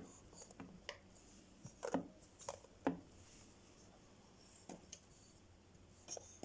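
Light knocks and clacks of household items being handled and set down on a cupboard shelf, about seven in all, clustered around the middle.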